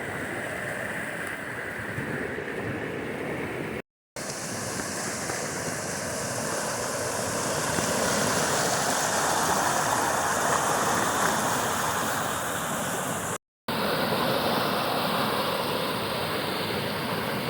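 Fast-flowing creek water rushing in a steady wash of noise that swells a little in the middle. The sound drops out completely twice, briefly, at edit cuts about four seconds in and about two-thirds of the way through.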